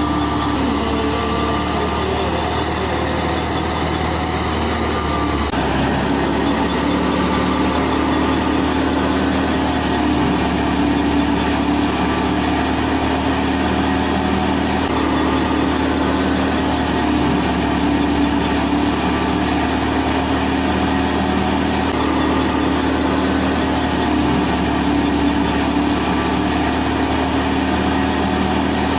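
A motor running steadily with an even, engine-like drone and hum, its tone shifting slightly about five and a half seconds in.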